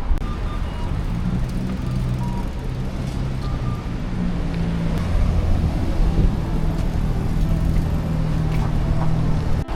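Street traffic: a motor vehicle's engine running close by with a steady low hum, its pitch stepping up and down, then a sudden break near the end.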